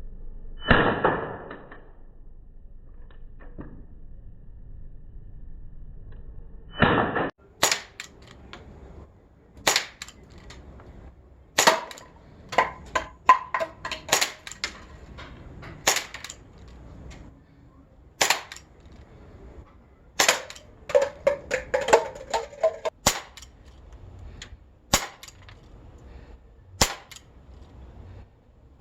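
Glock 19X CO2 blowback BB pistol firing, sharp cracks, single shots a couple of seconds apart with quicker strings in between, some followed by a brief ringing. Two short, louder noisy sounds come before the shooting begins, one near the start and one about seven seconds in.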